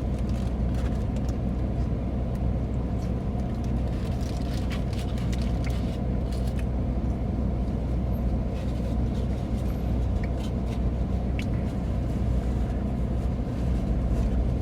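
A car engine idling steadily, heard from inside the cabin, with a few faint clicks and rustles over it.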